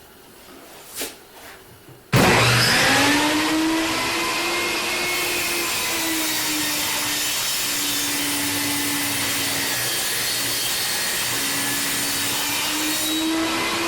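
A light click about a second in, then a table saw switches on about two seconds in and runs loud and steady, its motor whine climbing as it spins up. The pitch sags for several seconds midway and recovers, as the blade takes load jointing a board's edge on a sled.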